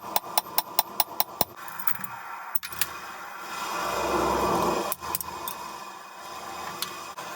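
Rapid hammer blows on steel over an anvil, about five a second, ringing, stopping about a second and a half in; then a few light metal clinks, and a rushing noise that swells and dies away about a second later.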